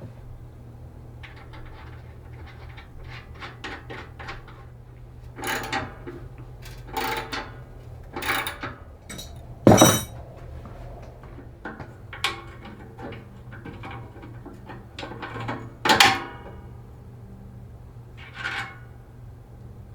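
Irregular clinks and knocks of metal tools and parts being handled, the loudest about ten seconds in and again about sixteen seconds in, over a steady low hum.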